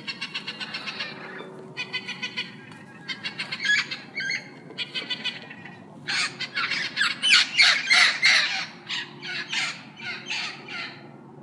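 A parrot calling in fast runs of short, harsh calls, several a second, which grow louder and denser about six seconds in.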